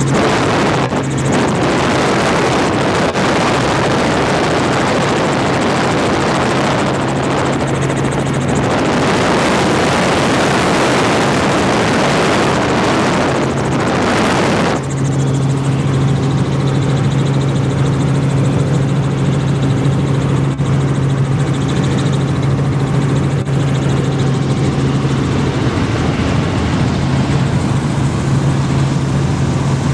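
Helicopter in flight: a steady, loud drone of engine and rotor with a constant low hum. For several seconds in the middle a louder rushing noise covers the hum, then the steady drone returns.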